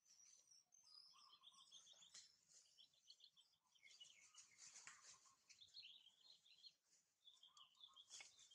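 Faint bird chirps and trills, with a quick run of repeated high notes about a second in and more chirping from about four seconds.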